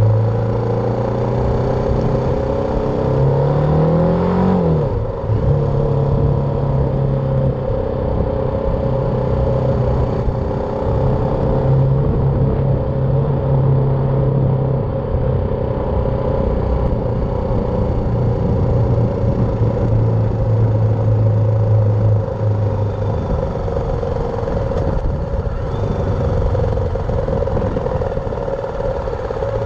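BMW G310R single-cylinder engine running under way on the road, with wind rumble underneath. The engine note climbs about four seconds in, drops as a gear changes, then holds steady before easing off about two thirds of the way through.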